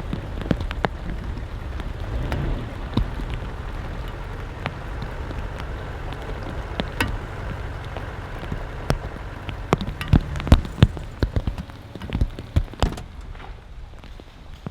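Heavy rain falling steadily, with sharp taps of large drops striking close by, most densely about two-thirds of the way through; the rain grows quieter near the end.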